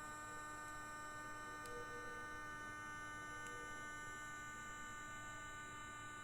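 Model train motor driven by a home-built PWM motor-driver power pack switching at about 300 Hz, giving a steady hum with a row of overtones, an imitation of the chopper-control whine of a JNR 201-series train.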